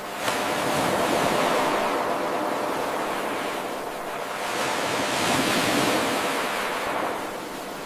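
Ocean waves washing onto a shore, swelling and ebbing twice. The recording jumps in abruptly a moment in, where the 8-second wave loop restarts.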